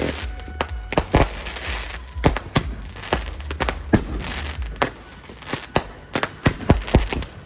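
Consumer fireworks going off: a rapid, uneven string of sharp bangs, several a second, with crackling in between.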